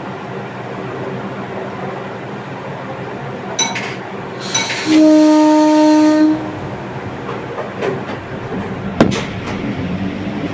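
Indian Railways EMU local train running with a steady rumble, its horn giving a short toot and then one loud, steady blast of about a second and a half near the middle.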